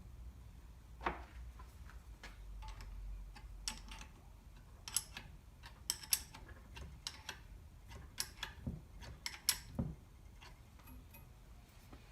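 Scattered light metallic clicks and taps, about a dozen at irregular intervals, from a new blade being handled and fitted into the frame of a power hacksaw.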